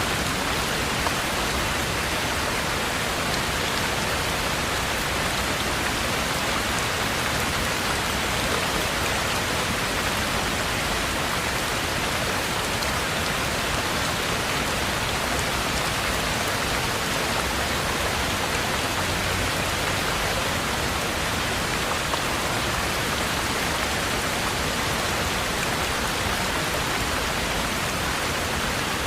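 Steady heavy rain falling, heard from inside a treehouse cabin.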